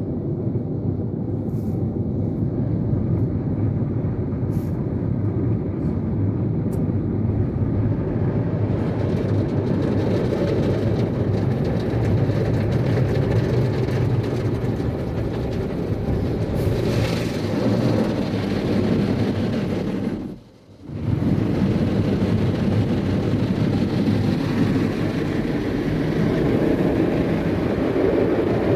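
Istobal M'Wash 3 Pro five-brush automatic car wash running, a steady low mechanical wash noise of brushes and water, with a brief drop-out about two-thirds of the way through.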